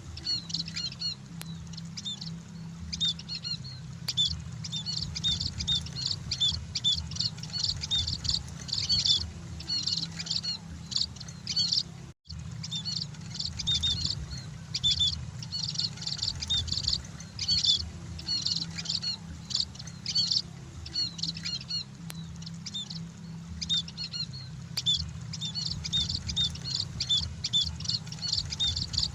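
A flock of munias (emprit) chirping: dense, rapid, high twittering calls overlapping without pause, over a steady low hum. The sound cuts out completely for a moment about twelve seconds in.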